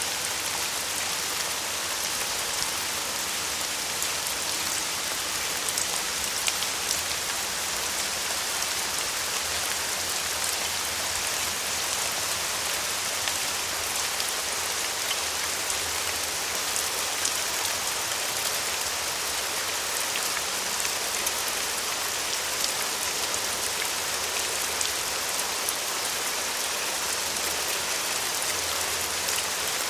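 Steady rain falling, an even hiss of drops with many small patters of drops landing on a surface.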